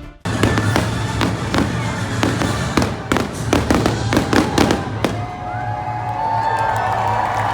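Fireworks going off in a rapid run of bangs and crackles for about five seconds, then thinning out into a softer wash with gliding, whistling tones near the end, over music.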